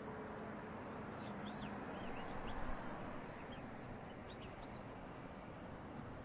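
Small birds chirping faintly in short, scattered high twitters over a steady, low outdoor background hum.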